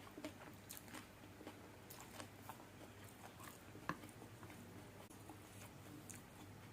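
Faint, wet mouth clicks and chewing of someone eating spicy fried noodles, with one sharper click a little before the four-second mark, over a low steady hum.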